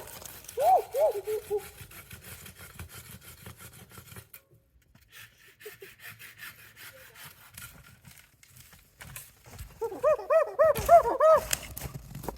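A dog whimpering in short, high, rising-and-falling cries: a brief run about half a second in, then a quicker run of about six near the end, with faint rustling between.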